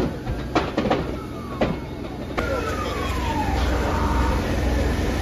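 Fireworks exploding in a burning shop: several sharp bangs in the first two seconds, then falling whistles, with a steady low rumble in the second half.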